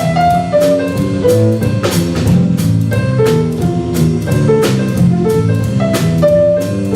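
Jazz ensemble playing a swing tune, with a walking run of pitched notes over a bass line and a drum kit keeping time.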